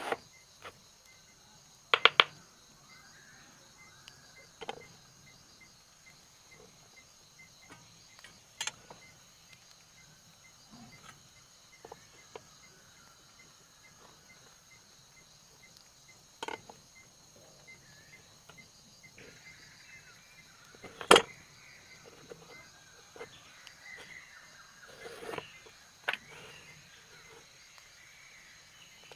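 Scattered sharp knocks and taps from hand woodworking, spaced seconds apart, loudest a quick double knock about two seconds in and a single one about twenty-one seconds in. Underneath, steady high-pitched insect chirring runs throughout.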